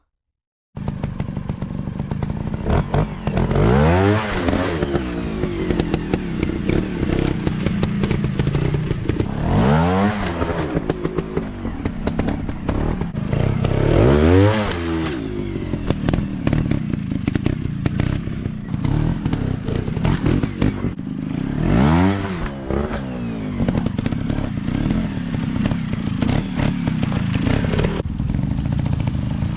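150 cc dirt bike engines running off-road, revving up and dropping back several times, with clattering and knocks throughout.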